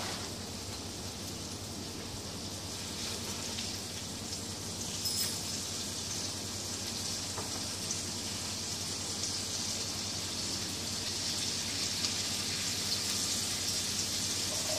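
Hamburger patties sizzling in a skillet: a steady frying hiss that grows a little louder over the seconds, with a faint clink or two.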